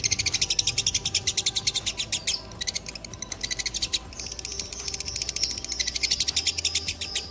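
Lovebird giving its long 'ngekek' call: a fast, unbroken chatter of sharp, high notes that pauses briefly twice before running on. This is the long-ngekek song prized in fighter lovebirds.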